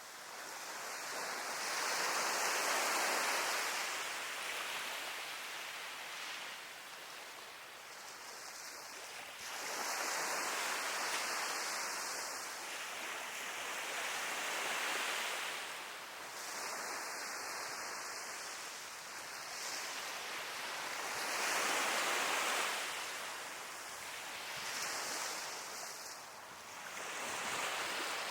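Sea waves breaking on a beach and washing up the shore, the surf swelling and easing in slow surges every several seconds.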